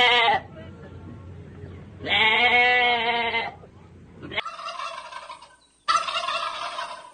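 An animal's long pitched call, held for about a second and a half a couple of seconds in, followed by a couple of shorter, different animal calls.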